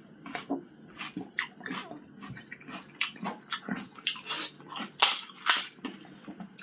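Close-up eating sounds of pani puri: crisp puri shells crunching between the teeth, with wet chewing in between, in irregular sharp bursts a few times a second.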